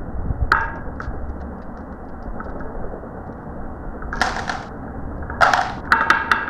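Marbles rolling down a marble run, a steady rolling rumble broken by sharp clicking knocks as they strike the track, with a cluster of clicks about four seconds in and again near the end.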